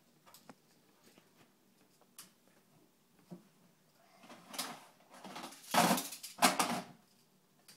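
Plastic Magformers magnetic building pieces clattering and rattling against each other as they are handled, loudest about six seconds in, after a few faint clicks.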